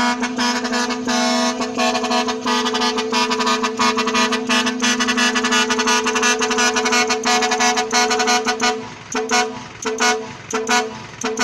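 A truck horn sounds one steady low note for about nine seconds, then breaks into short toots, over a fast rattling patter.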